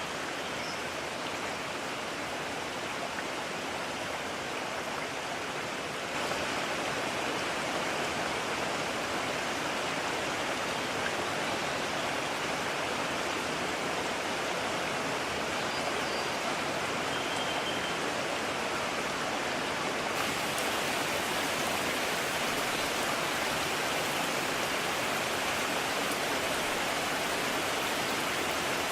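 Steady rushing of a mountain stream, water tumbling over rocks. It gets abruptly louder about six seconds in and again about twenty seconds in.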